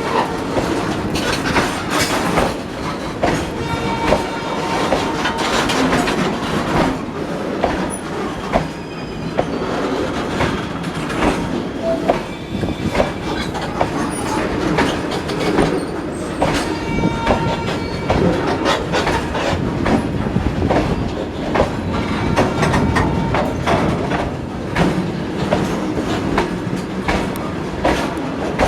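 Freight train of BOXN wagons rolling past, wheels clattering steadily over rail joints with dense repeated clicks. High squealing tones from the steel wheels come and go.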